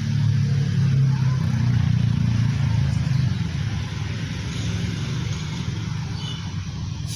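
Diesel locomotive engine running with a deep, steady drone. It is loudest for the first three seconds, then eases off somewhat.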